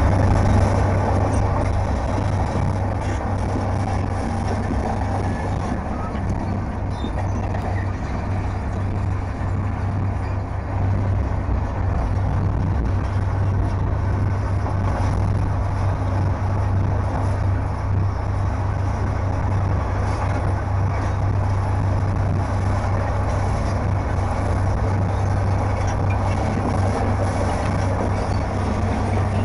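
Caterpillar D10 bulldozer's diesel engine running steadily with a low, constant drone as it pushes rock.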